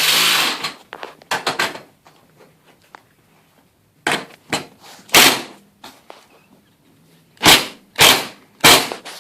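Sharp knocks and clanks while a garage door's hardware is being worked on. There is a short rattling burst at the start, then single hard strikes, the last three evenly spaced about half a second apart.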